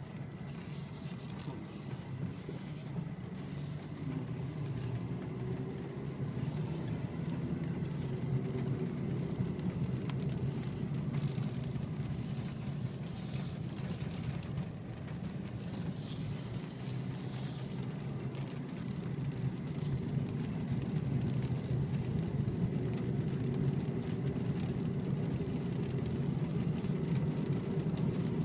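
Steady low rumble of a vehicle on the move, slowly getting louder, with a few brief hissing swishes.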